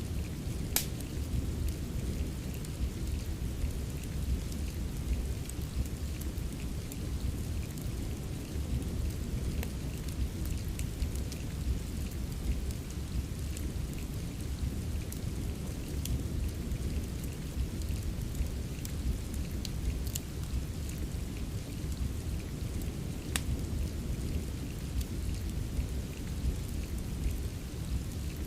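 Rain mixed with a crackling wood fire: a steady deep hiss of rain, with scattered sharp crackles and pops from the fire, a few of them louder.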